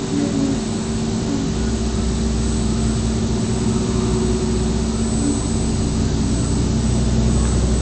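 DMU 65 five-axis CNC milling machine running while milling a flange: a steady machine hum with a thin high whine, its low rumble growing stronger about a second and a half in.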